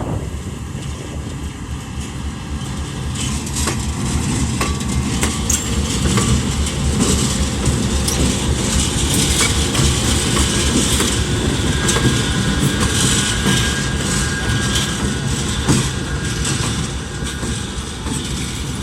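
Freight train rolling past slowly while shunting: a continuous rumble of wheels on rail, with irregular clicks and knocks over the rail joints, getting louder after about three seconds.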